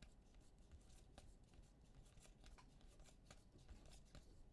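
Near silence with faint rustling and light clicks of trading cards being handled and slid through a pack.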